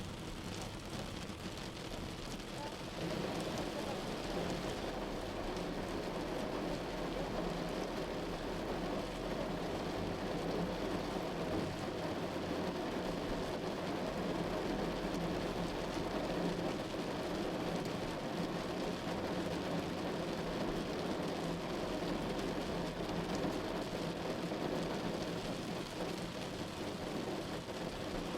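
Heavy rain drumming steadily on a moving car, mixed with tyre and road noise; it grows louder about three seconds in and then holds.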